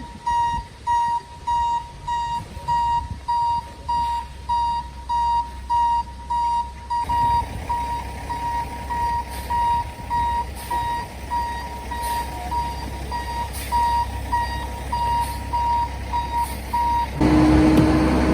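Vehicle reversing alarm beeping steadily, about two beeps a second, over a low engine rumble. Near the end the beeping stops and a louder engine sound with a steady hum takes over.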